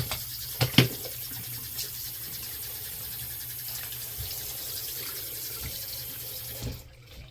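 Faucet running water into a sink, a steady hiss, to test the freshly cleared and reassembled drain; a couple of sharp knocks just under a second in, and the water shuts off near the end.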